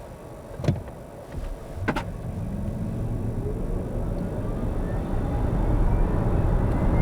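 Cabin sound of the Smart #5 BRABUS electric car accelerating hard from a standstill in Comfort mode: road and tyre rumble building steadily, with a faint electric-motor whine rising in pitch. Two sharp clicks in the first two seconds.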